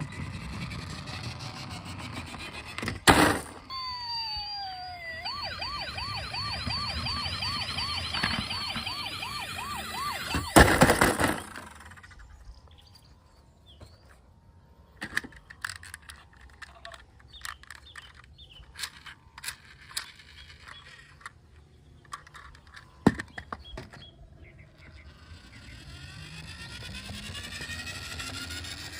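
Electronic toy emergency-vehicle siren: a falling tone, then a fast, evenly repeating wail for about six seconds. A sharp click comes just before it and a loud knock as it stops, followed by scattered small plastic-sounding clicks.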